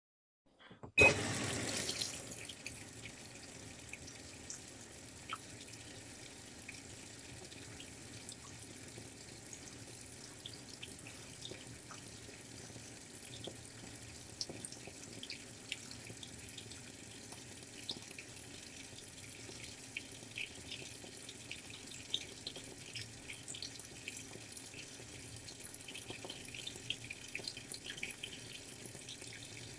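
Washing machine with water running into it, a steady rush starting suddenly about a second in, with scattered small drips and ticks.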